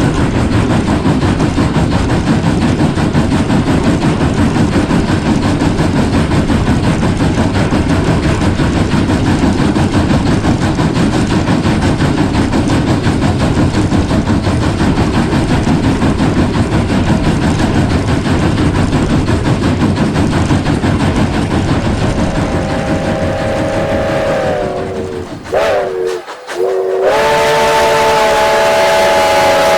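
Cumbres & Toltec narrow-gauge steam train running, a steady rumble with the clatter of wheels on rail. About 22 seconds in, its steam whistle blows a long blast of several notes at once, sagging slightly in pitch, breaks off briefly, then sounds again, held steady.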